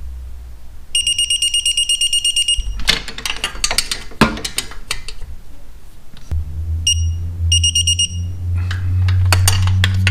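Electronic torque wrench beeping rapidly, a high pulsing tone, as the engine-mount bolts reach the set 20 ft-lb. It beeps twice over, with ratchet clicks from the wrench between. A steady low hum starts about six seconds in.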